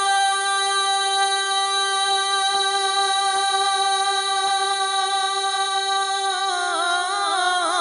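Devotional naat singing: one long, steady held note, then an ornamented vocal melody with quick turns in pitch near the end.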